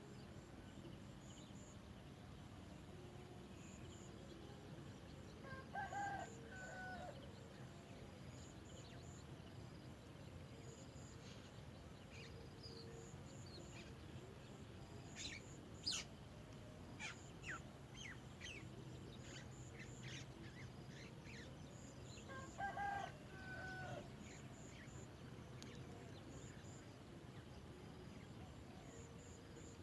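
Faint bird calls over a quiet outdoor background: two matching pitched calls about a second long, well apart, with a run of short sharp chirps between them and a faint steady insect ticking throughout.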